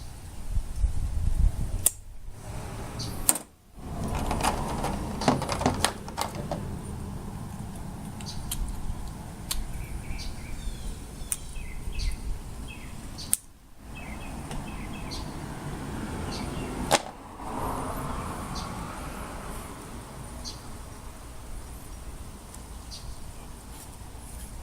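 Scattered metal clicks, taps and scrapes of hand tools working at old nails driven into a hatchet's wooden handle, to pull them out.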